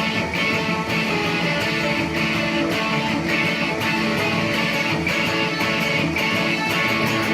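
Electric guitar solo in a rock song, played over a steady drum beat and bass.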